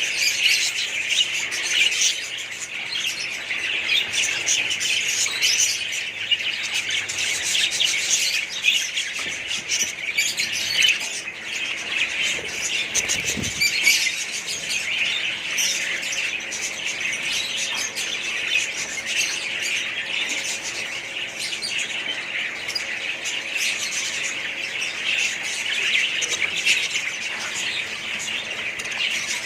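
A group of small pet birds chirping and squawking in continuous, overlapping chatter.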